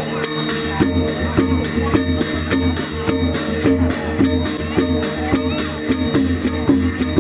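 Traditional Shan dance music from a percussion ensemble of drum, gongs and cymbals, playing a steady repeating beat of about two strokes a second over sustained ringing gong tones.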